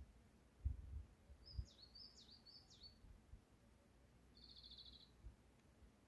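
Faint bird song in a quiet forest: three quick up-and-down chirps, then a short fast trill about four and a half seconds in. A couple of brief soft low thumps sound about a second in.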